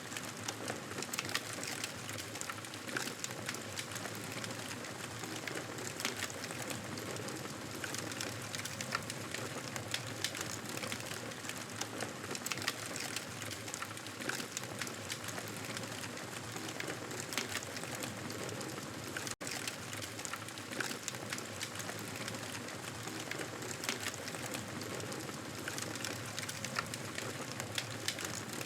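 Fireplace fire crackling steadily: a constant hiss with frequent small, irregular pops and snaps. The sound cuts out for an instant about 19 seconds in.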